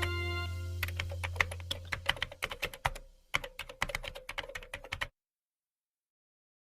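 A rapid, irregular run of sharp clicks, like typing, over a steady low hum that fades out. The clicks stop abruptly about five seconds in, leaving dead silence.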